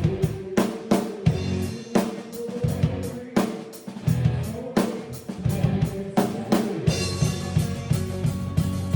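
Drum kit played with sticks: hard snare and bass drum strokes with rimshots, over a recorded band track with bass. From about seven seconds in the backing music grows fuller and the drum strokes stand out less.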